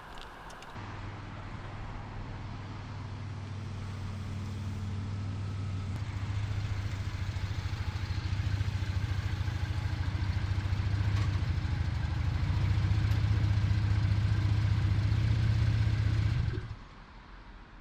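Car engine and road noise while driving: a steady low drone that slowly grows louder and cuts off abruptly near the end.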